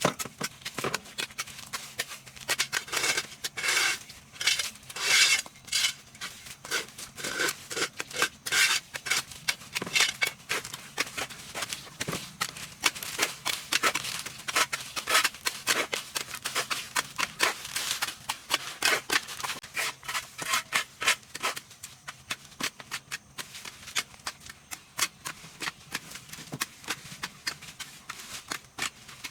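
Rapid, irregular scraping and clicking strokes with bursts of hiss, like hand work rubbing or cutting at a surface. The strokes thin out over the last few seconds.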